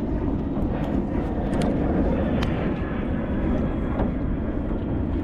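Steady low rumbling noise of wind buffeting the microphone outdoors, with a few faint clicks.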